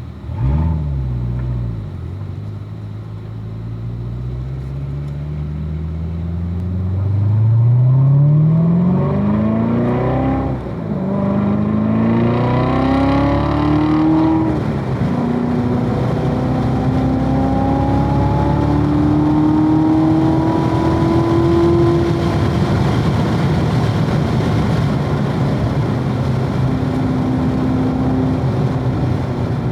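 2016 Corvette Z06's supercharged 6.2-litre V8 under hard acceleration, its pitch climbing through the revs and dropping sharply at upshifts about ten and fourteen seconds in. After that it pulls on with a slower, steadier rise in pitch. A sudden loud rev comes just after the start.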